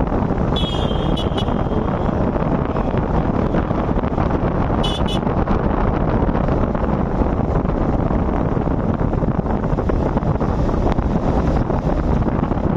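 Wind rushing over the microphone of a moving motorcycle, a steady loud rush mixed with engine and road noise. Short high-pitched beeps come twice, near the start and about five seconds in.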